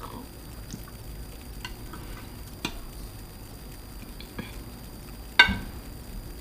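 Eating sounds during a seafood meal of clams and octopus with rice: a few soft clicks and wet smacks, and one sharp clink with a short ring about five seconds in.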